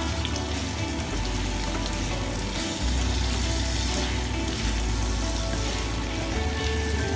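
Beef and chilies sizzling as they are stir-fried in a stainless steel frying pan and turned with a spatula, over background music with sustained bass notes.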